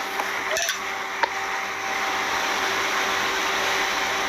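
Steady mechanical hum with a few short knocks in the first second and a half.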